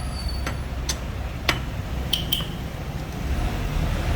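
Five sharp clicks and light clinks, spaced irregularly over about two seconds, some with a short ring, over a steady low rumble.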